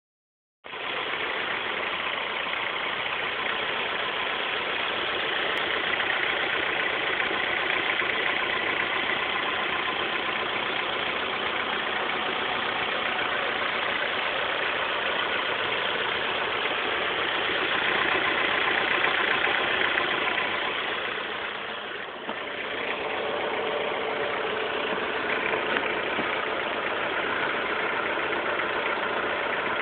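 2006 Honda S2000's 2.2-litre four-cylinder engine idling with a rattle, which the owner suspects comes from a failing timing chain auto tensioner.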